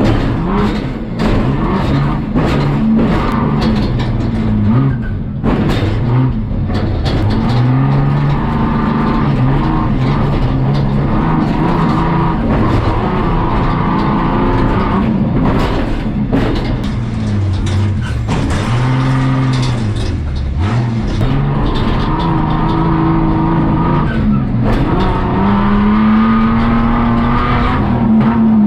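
Onboard sound of a Jeepspeed off-road prerunner driven hard over a dirt motocross track: the engine revs up and falls back again and again as it accelerates and lifts, with frequent knocks and bangs from the chassis and suspension over the bumps and jumps.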